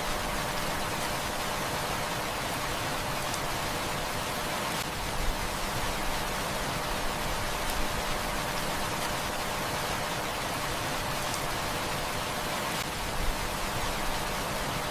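Heavy rain falling in a steady hiss, with the occasional sharp click of a crackling wood fire, two of them louder, about five and thirteen seconds in.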